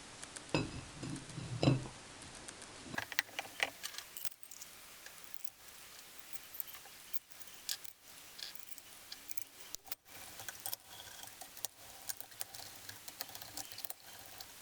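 Hand tools working on engine parts: scattered sharp metallic clicks and clinks, with a few heavier knocks in the first two seconds.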